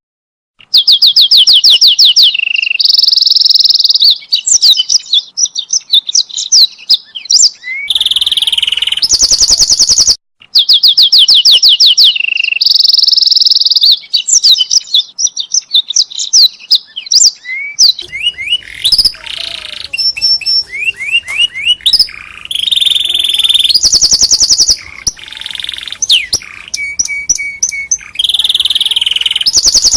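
Domestic canary singing a loud, continuous song made of fast trills, rolls and chattering phrases, its notes repeated many times a second, with one short break about ten seconds in.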